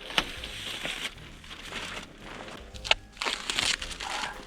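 Plastic wrapping crinkling and rustling as it is handled and pulled off a new door handle, with a sharp click near the start and another about three seconds in.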